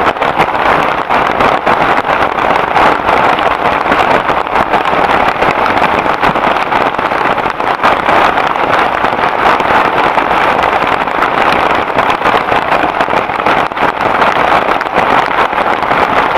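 Heavy rain falling steadily: a loud, even hiss thick with small drop hits, unbroken throughout.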